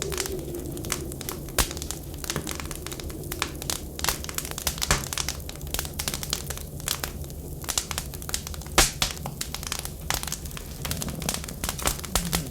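Wood fire crackling in a fireplace, with frequent irregular sharp pops over a steady low rumble. A faint wavering tone is heard briefly near the start and again near the end.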